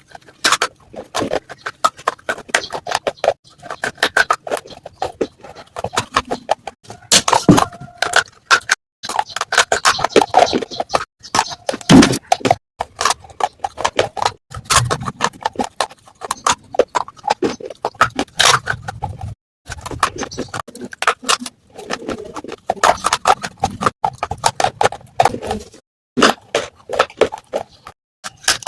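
Close-up crunching of baked clay pot (matka) pieces: rapid, crisp cracks in bursts with brief pauses between them.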